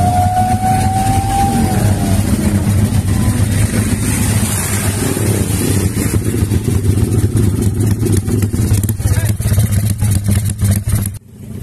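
Air-cooled single-cylinder racing motorcycle engine revved loud and hard in quick repeated throttle blips. A thin rising whistle sounds over it in the first second and a half, and the engine sound cuts off abruptly near the end.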